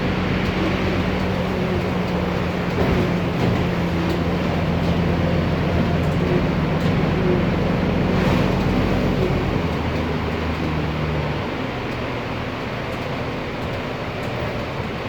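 Cummins ISB Euro 6 turbo diesel engine of an Otokar Kent LF city bus running while the bus is under way, with a steady hum. About two-thirds of the way through the engine note eases off and gets quieter.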